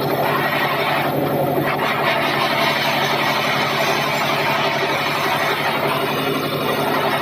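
Sawmill bandsaw running steadily, a constant machine drone with a noisy rasp over it.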